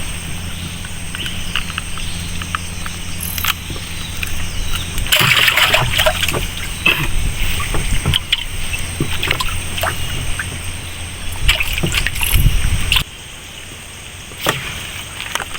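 Small boat's engine running steadily, with water splashing and sloshing and scattered knocks; the engine hum cuts off suddenly about 13 seconds in.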